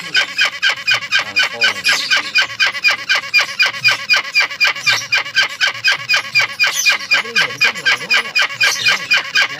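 Young hornbill chick calling: a fast, unbroken run of short, evenly spaced calls, about five a second.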